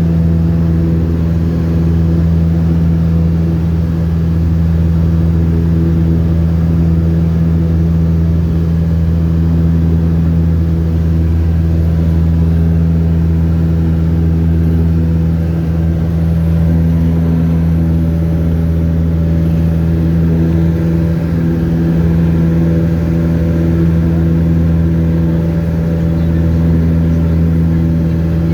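Light aircraft's engine and propeller running steadily in flight: a constant, loud low drone with no change in pitch.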